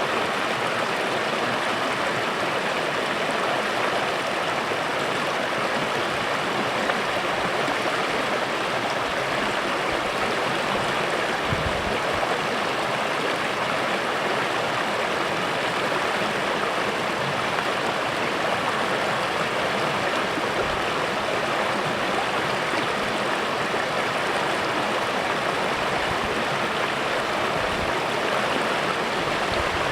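A small creek flowing: a steady rush of running water, with a few faint low bumps.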